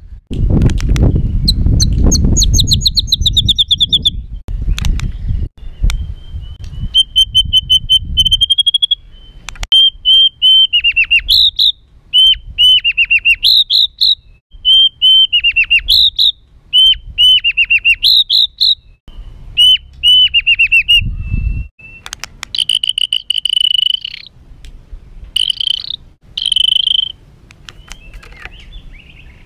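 White-rumped shama (murai batu) singing a harsh, agitated song: rapid strings of short clipped notes and fast trills, repeated again and again. A low rumble lies under the first eight seconds or so.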